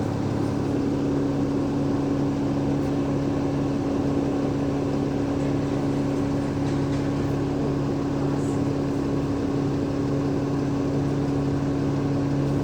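Cummins ISL8.9 diesel engine of an Alexander Dennis Enviro500 MMC double-decker bus running steadily, heard from inside the bus, with a steady hum whose pitch stays level.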